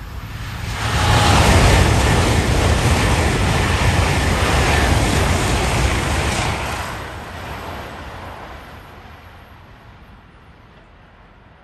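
A train passing at speed: a rushing roar with a deep rumble swells up about a second in, holds loud for about six seconds, then fades away.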